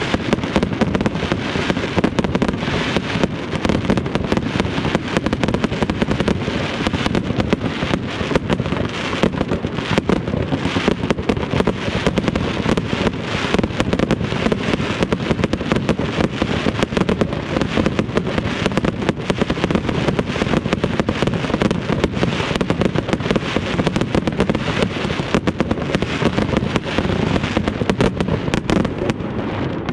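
Aerial fireworks launching and bursting in quick succession, a dense, continuous run of bangs and crackle with no pauses.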